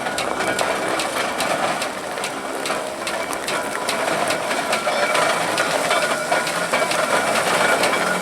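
An old military vehicle running: an engine hum with a rapid, irregular clatter of clicks and knocks.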